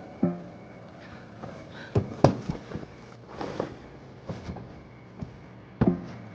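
A few sharp knocks and thuds, the loudest pair about two seconds in and another near the end, with soft rustling between them.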